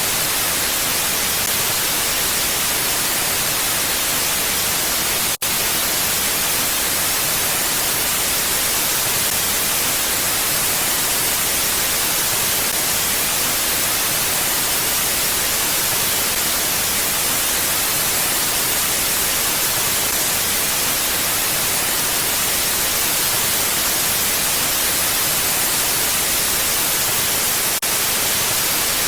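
Steady mountain wind noise: an even hiss, strongest in the high range, with no gusts. It cuts out for an instant about five seconds in.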